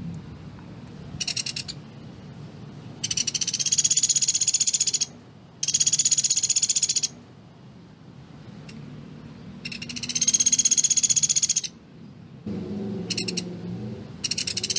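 Pelatuk beras woodpecker calling in rapid rattling trills, each a fast run of sharp high notes. About six bursts come in turn, some under half a second and others one to two seconds long.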